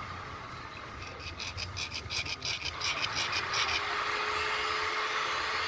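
A rapid run of ticks, about five a second, for nearly three seconds. Then the motor of a powered cutting saw starts and runs steadily, with a whine that rises briefly as it comes up to speed and a hiss over it.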